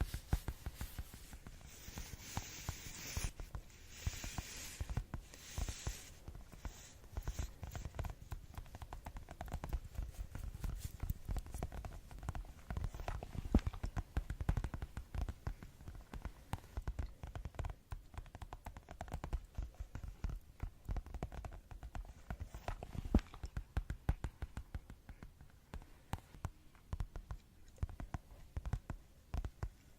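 Fast ASMR tapping, fingers or nails drumming on objects in a dense, irregular patter of many taps a second. For a few seconds near the start it turns brighter and hissier, like scratching.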